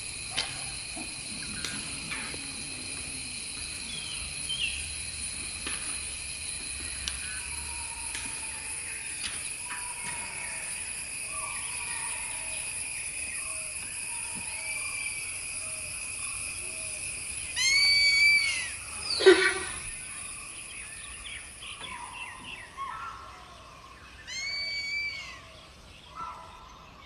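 Forest ambience: a steady, high insect drone, with bird calls over it. A bright call repeats about two-thirds of the way through and again near the end, and a loud call slides sharply downward just after the first. The drone drops away a few seconds before the end.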